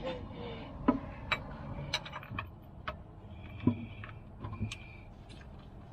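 Scattered, uneven metal clicks and clinks of a wrench being fitted and worked on a tractor's hydraulic oil drain plug.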